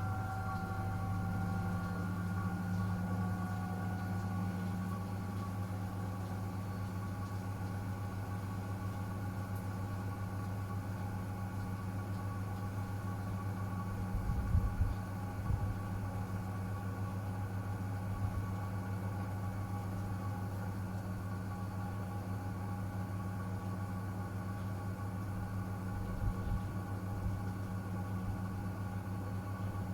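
Miele W1 front-loading washing machine running through a cotton 60°C cycle: a steady motor hum with a few held whining tones that rise slightly in the first seconds, then settle. There are brief low thumps about halfway through and again near the end.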